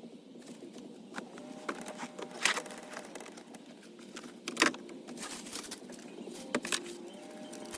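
Handling noise from clearing junk out of a car interior: scattered rustling and light clicks, with two sharper knocks about two and a half and four and a half seconds in.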